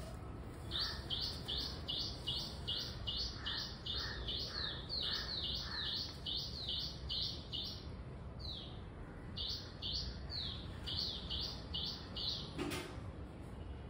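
A bird chirping one short, high note over and over, about three a second, with a brief break partway through. A single soft knock comes near the end.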